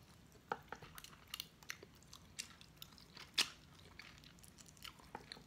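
A person biting and chewing chicken wings adobo by hand, close to the microphone: faint, scattered mouth clicks and smacks, with one louder click about three and a half seconds in.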